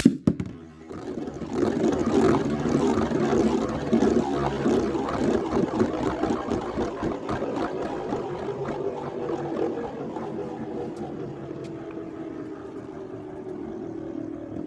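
Two Metal Fight Beyblade spinning tops launched with a sharp snap, then whirring and scraping in the stadium with many small clicking hits. The spin slowly loses loudness and settles to a lower, steadier whir as the tops slow down.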